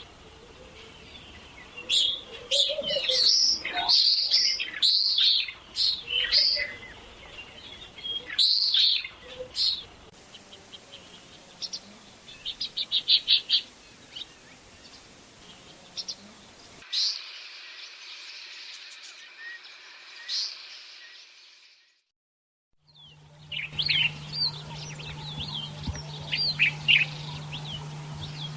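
Common swifts screaming: repeated shrill, high-pitched calls, some in quick rattling runs. Several recordings follow one another with a brief silent break about two-thirds of the way through, and the last one carries a steady low hum under the calls.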